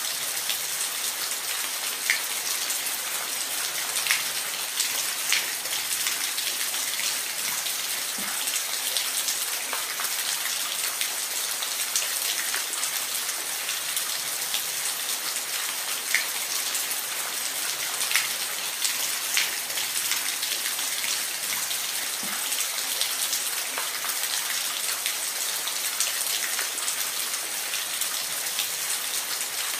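Steady rain: a continuous high hiss of rainfall with individual drops ticking on a surface every second or so.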